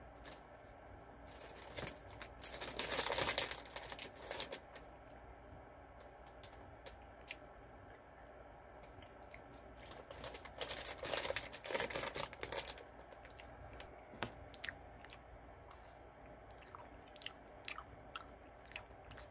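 A person chewing sour sugar-coated gummy candy close to the microphone. There are two louder spells of chewing, about two and about ten seconds in, with scattered quieter mouth clicks between and after.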